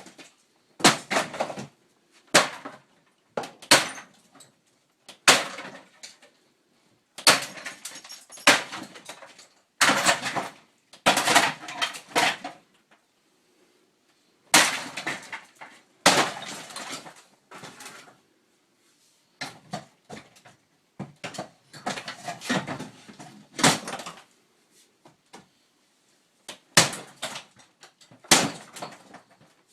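A camper's bathroom sink being smashed out: a long, irregular run of hard blows, each with a crash and clatter of breaking material, some in quick pairs and triples, with a short pause about halfway through.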